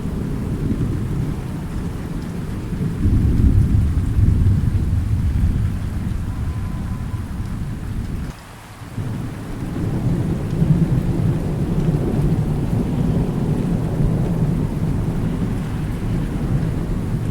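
Steady rain with low rolling thunder rumbling throughout, swelling to its loudest a few seconds in. The rumble drops away briefly just past the middle, then builds again.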